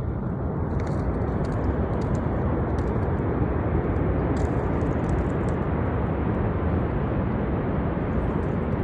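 Niagara Falls: a steady, unbroken rush of falling water.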